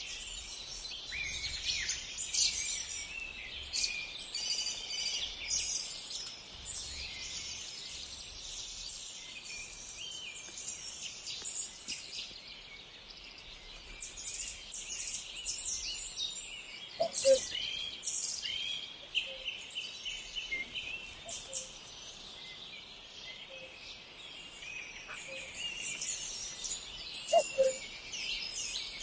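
Many small songbirds chirping and singing at once in a dense outdoor chorus. A louder, lower call cuts through twice, about ten seconds apart.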